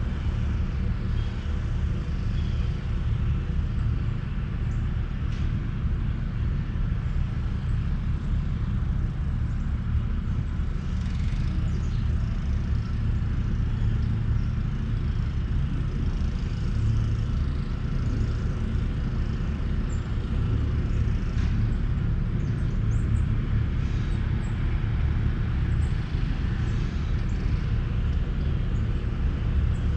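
Steady low outdoor rumble, with faint short high chirps now and then.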